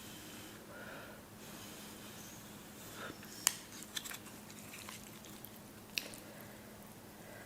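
Close-miked eating sounds of spicy noodles being chewed, with a few sharp clicks partway through, the loudest about halfway in.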